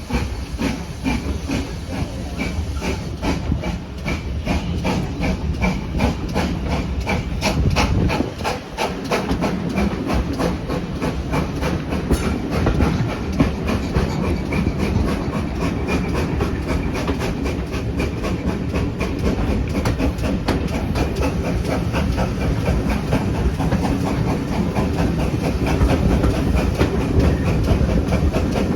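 Steam train running along the line: a steady rumble and hiss with a fast, even run of beats throughout.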